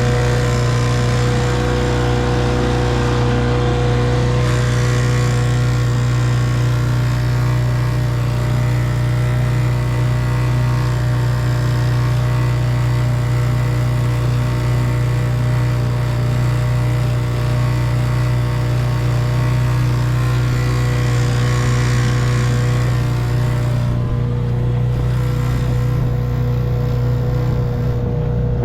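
1958 Evinrude 3 hp two-stroke outboard motor running steadily at an even speed, with a hissy upper sound that softens a little near the end.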